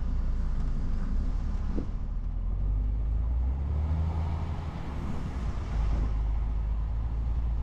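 Articulated lorry's diesel engine running with road noise, a steady low rumble whose engine note changes midway.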